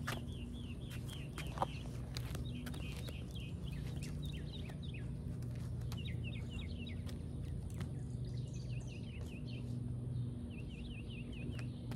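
A bird chirping in repeated runs of short, quick, falling notes, about four a second, over a steady low hum. A single sharp knock sounds about one and a half seconds in.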